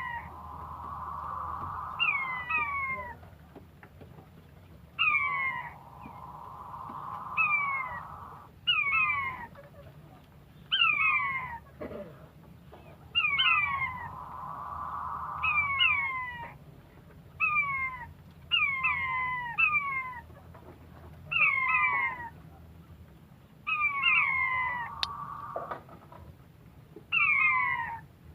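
Quail calling over and over: short, downward-slurring whistled notes, often in quick pairs, about every second or two.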